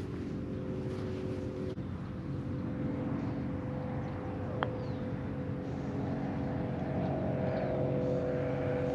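Golf cart driving along, a steady motor hum with a few even tones over road and wind noise.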